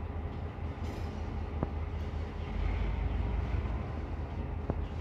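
Freight train moving slowly while being shunted: a steady low rumble from the locomotive and wagons, with two sharp clicks about three seconds apart.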